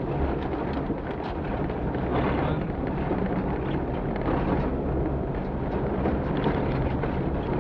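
Offroad rally vehicle's engine running steadily under load while driving over rough ground, with frequent short knocks and rattles.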